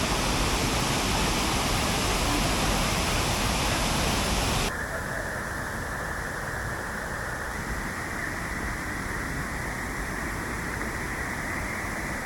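Steady rushing noise of the Cummins Falls waterfall pouring into its pool. Nearly five seconds in, the sound abruptly turns quieter and duller, losing its hiss.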